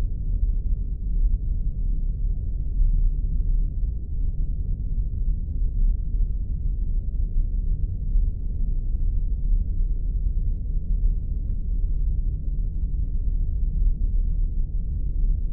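Spaceship ambience sound effect: a steady, deep engine rumble, with nothing above a low hum and no changes.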